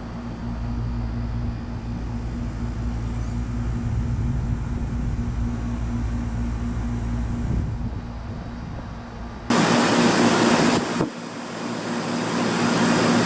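Outdoor unit of a 1995 3-ton Tempstar central air conditioner with a Copeland reciprocating compressor, humming steadily at startup. About nine and a half seconds in, a loud rush of air noise comes in suddenly, drops out briefly, then builds back up.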